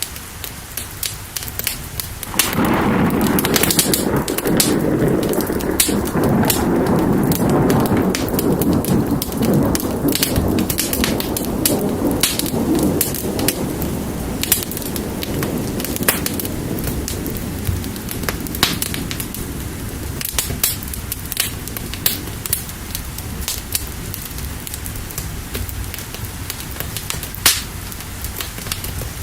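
Steady rain with a fire crackling in sharp pops throughout. About two seconds in, a long roll of thunder starts suddenly and rumbles for around ten seconds, slowly fading away.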